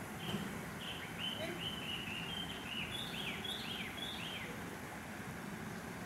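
A small bird chirping: a quick series of short notes, the last few slurring downward, stopping about four and a half seconds in, over a steady background hiss.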